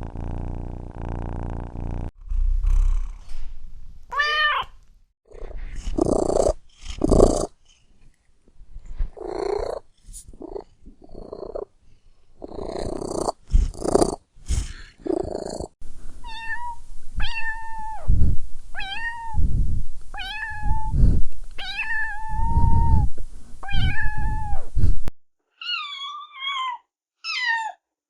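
Domestic cats purring and meowing in a string of separate recordings. A steady purr comes first, then short bursts of purring with an occasional meow. Just past the middle comes a run of about seven evenly spaced meows, and near the end a few higher, shorter meows.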